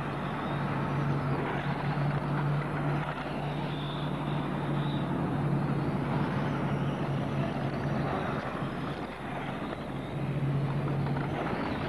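Radio-controlled model race cars running around the track, a steady mechanical whir under a constant low hum.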